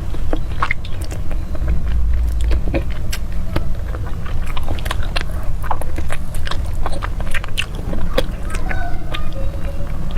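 A person chewing and biting food close to the microphone: irregular mouth clicks and smacks over a steady low rumble.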